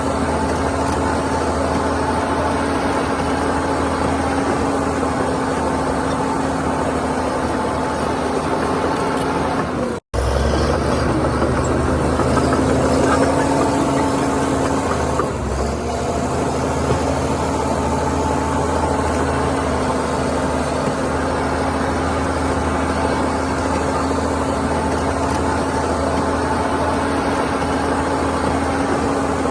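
Heavy diesel engine of earthmoving machinery running steadily, with a slight rise in effort a few seconds after a momentary cut-out about ten seconds in.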